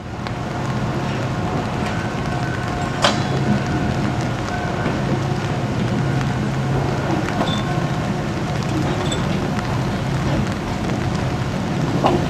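Boxcar rolling slowly along wet track, shoved by a diesel switcher locomotive whose engine drones steadily under the rain noise. A sharp click about three seconds in and another near the end.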